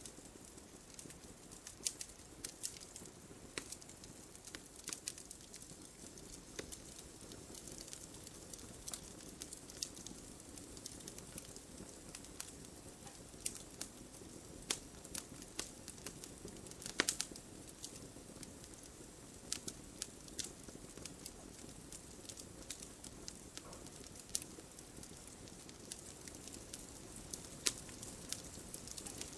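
Campfire burning with a soft steady hiss and irregular crackles and pops of burning wood, a few louder snaps among them.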